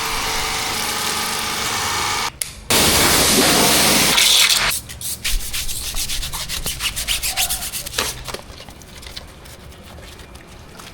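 Pressure washer spraying water in a steady hiss, cut off briefly about two seconds in and stopping about halfway through, followed by quieter irregular rubbing and clicking.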